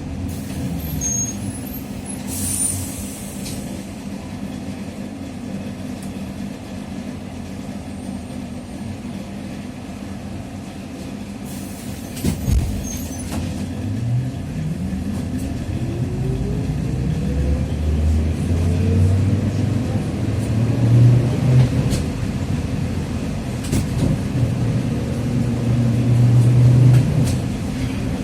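Trolleybus running on its Ishimbay (IZTM) drive axle: the gear whine falls in pitch as it slows at the start. Short air hisses come twice and a low thump near the middle, then the whine rises in pitch as it pulls away and holds steady while it runs on.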